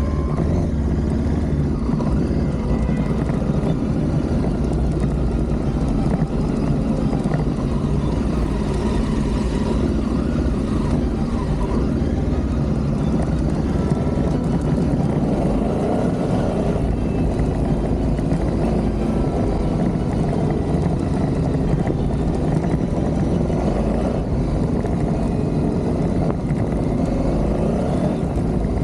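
Adventure motorcycle under way, its engine running steadily under a constant rush of wind noise.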